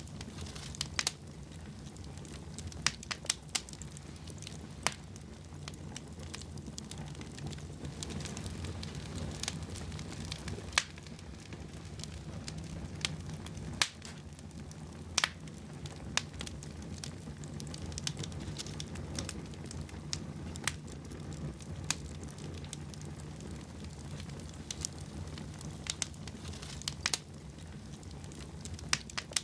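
Wood fire burning in a fireplace, crackling with sharp irregular pops over a low steady rumble of the flames.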